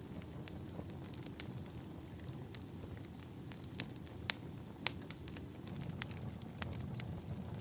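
Wood fire crackling in a fireplace: a steady low rumble with irregular sharp pops and snaps, two of them louder a little past the middle.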